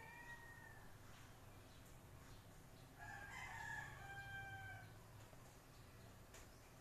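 Faint drawn-out calls of a bird, a short one at the start and a longer one of about two seconds in the middle, over a low steady hum.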